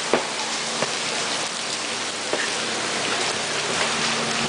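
Steady rain falling, an even wash of noise with a few faint drop ticks.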